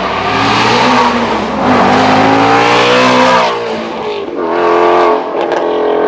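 Shelby GT350R's 5.2-litre flat-plane-crank V8 accelerating hard, its pitch climbing steadily through the revs, dropping off about three and a half seconds in, then climbing again briefly.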